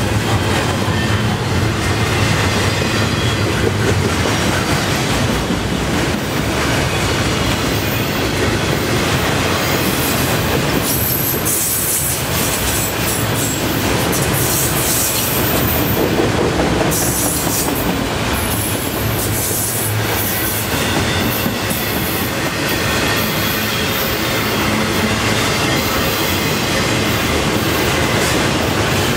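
A long freight train of double-stack container well cars, then autorack cars, rolling steadily past close by. High-pitched wheel squeals come and go through the middle and again near the end.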